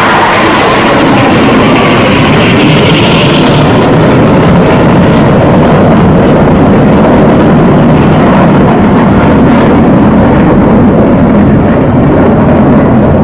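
Loud roar of jet aircraft flying past low. A whine rises in pitch over the first few seconds, then the sound turns duller and deeper as the jets move away.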